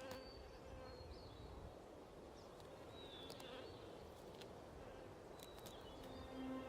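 Faint outdoor ambience with a low rumble and a few faint, short, high chirps and clicks. A low held music tone comes in near the end.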